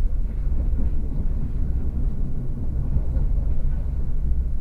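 Passenger train running along the line, a steady low rumble heard from inside the carriage.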